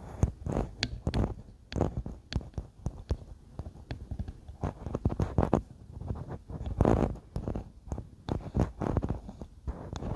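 Close-miked ASMR tapping on objects: quick irregular taps, often in little clusters, mixed with soft low thuds.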